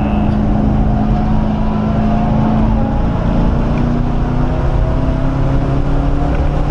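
1997 SVT Cobra Mustang's 4.6-litre DOHC V8 heard from inside the cabin, running steadily with its pitch rising slowly. Under it is a constant din of tyre and wind noise.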